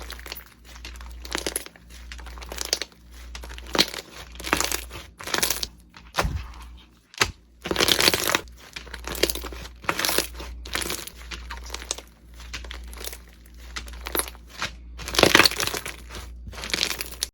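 Slime being squeezed and pressed by hand, giving repeated crackling bursts about once a second.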